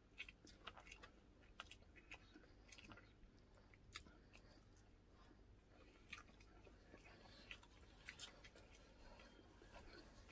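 Faint chewing and eating sounds: scattered soft, irregular clicks of people eating.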